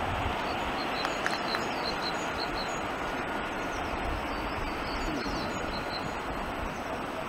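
Rumble of a steam-hauled train fading slowly into the distance after it has passed, with small birds chirping over it.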